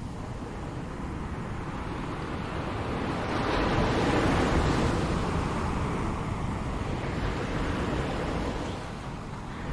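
Ocean surf washing ashore as a steady rush of noise. One wave swells about three seconds in and eases off over the following few seconds.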